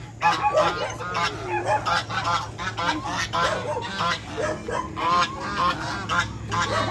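Geese honking repeatedly, short calls following and overlapping one another throughout, over a steady low hum.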